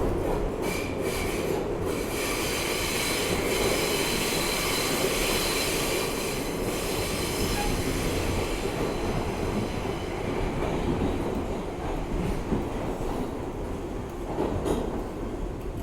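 R62A subway car running at speed on the rails, with a steady rumble of wheels and the squeal of steel wheels on the rail for about the first seven seconds. There are a few short rail-joint knocks near the start and near the end.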